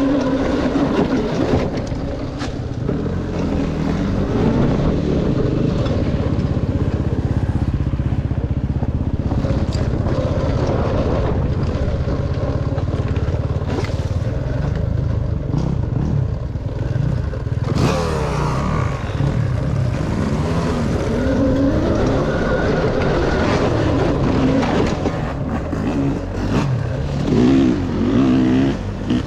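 Dirt bike engine running under load on a trail ride, its pitch rising and falling as the throttle opens and closes, with scattered sharp knocks.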